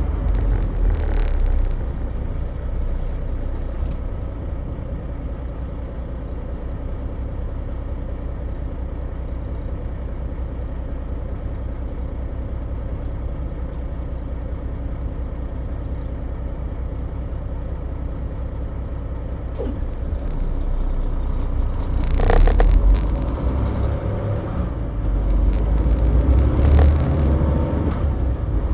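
Semi truck driving: a steady low rumble of engine and road noise, with a brief louder burst of noise about three-quarters of the way through.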